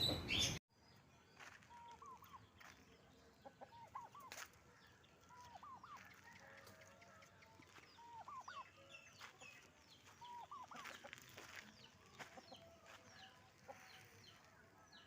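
Faint clucking of aseel chickens: short rising-and-falling calls in clusters of two to four, every couple of seconds. There is a sharp click about four seconds in.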